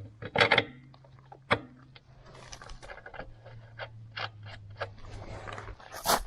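Metal clinks, taps and scrapes of a bolt and hand tools being handled while a missing bolt is replaced on a tractor wheel rim, with one louder clank near the end. A low steady hum runs under most of it.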